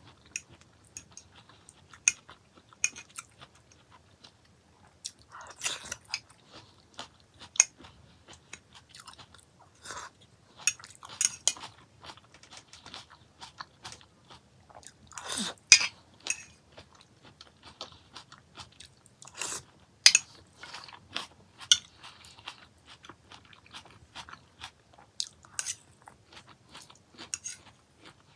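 Close-up chewing and crunching of a salad of broccoli, sweetcorn, tomato and boiled egg, mouthful after mouthful, with irregular crisp crunches and a few louder bites.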